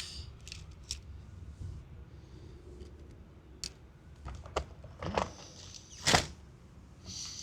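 Scattered clicks and knocks of fishing tackle being handled on a boat, the loudest knock about six seconds in, over a low steady rumble.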